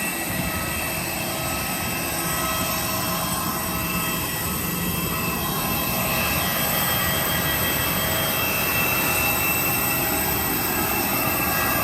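Steady drone inside a small passenger plane's cabin on the ground, with several thin steady whines above it.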